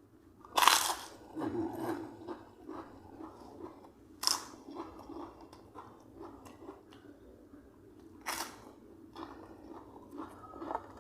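A person biting and chewing crisp food close to the microphone: three loud crunches about four seconds apart, with softer wet chewing between them.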